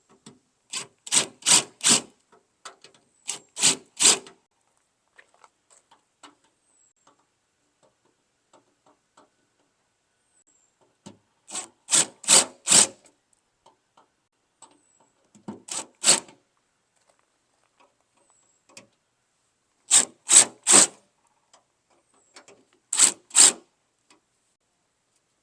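Short rasping bursts of tool work on the metal tailgate, mostly three in quick succession, repeated about six times with pauses between.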